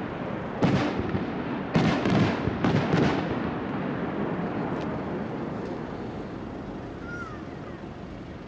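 Aerial firework shells bursting: about five bangs in the first three seconds, some close together, followed by rolling echoes that slowly fade.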